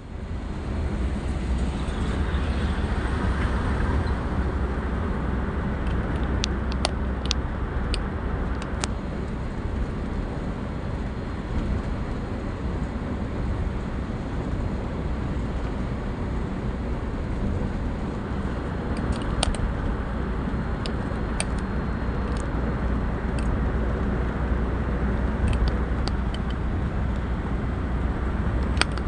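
Vehicle driving at speed on a highway: steady road and wind rumble, with a few light scattered clicks.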